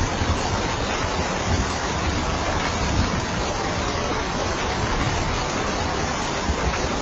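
Steady heavy rain: an even, unbroken hiss with a low rumble underneath.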